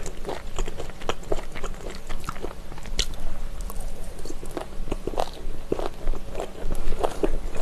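Close-miked chewing of spicy stir-fried chicken feet (buldakbal), the gristle giving quick, irregular crunches between the teeth.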